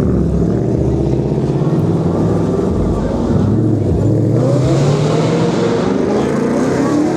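A car engine running, its pitch climbing in the second half as it revs up.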